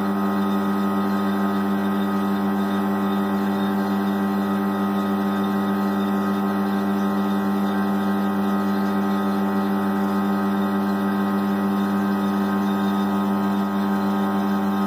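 Vacuum pump of a car air-conditioning recharge machine running with a steady hum, evacuating the vehicle's AC system to draw out moisture and show whether it holds a vacuum (no major leak).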